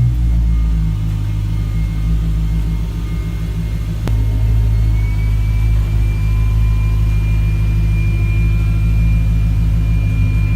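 A Ferrari-built V8 car engine idling with a steady low rumble, with one sharp click about four seconds in.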